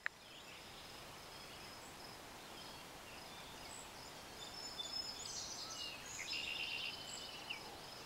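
Faint birdsong outdoors: short high chirps and trills from one or more birds, busiest from about four to seven and a half seconds in, over a low background hiss.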